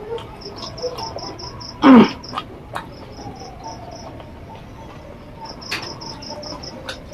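Crickets chirping in runs of fast, even, high pulses, with a few sharp clicks. About two seconds in, a loud short sound falls in pitch.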